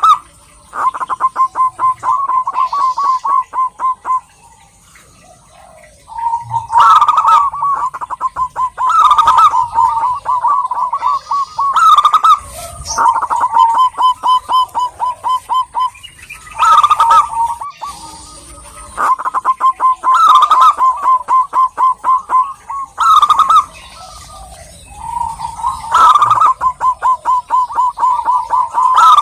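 Zebra dove singing: phrase after phrase of rapid staccato cooing notes, each run broken by louder rolling coos, with short pauses between phrases.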